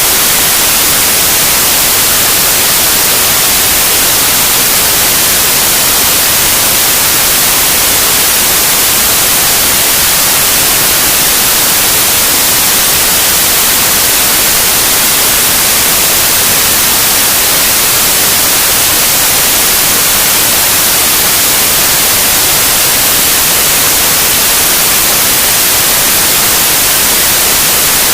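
Loud, steady white noise: an even hiss with no tones or breaks, brightest in the high pitches.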